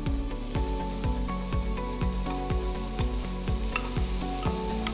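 Chopped onions sizzling in sunflower oil in a hot pan as a wooden spatula stirs them, with a few light clicks near the end. Background music with a steady beat about twice a second plays over it.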